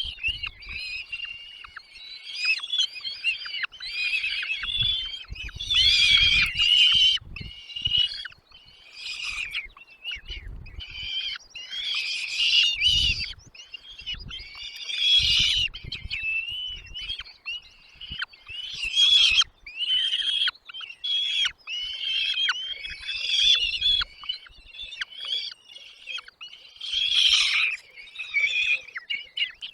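Nestling birds calling nonstop in the nest, a dense stream of high-pitched, overlapping chirps, the kind of begging that goes with being fed. Several low dull thumps break in during the first half.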